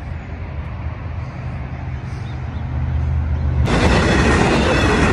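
A low steady rumble, then about two-thirds of the way in a loud rushing noise starts abruptly: a double-deck passenger train going past close by on the tracks.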